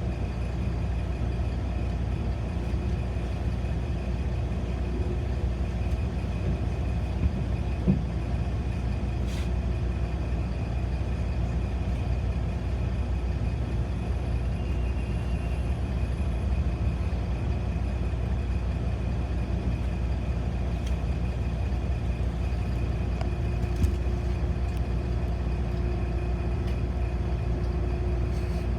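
City bus running between stops, heard from inside the passenger cabin: steady low engine and road rumble with a constant hum, and an occasional small knock or rattle.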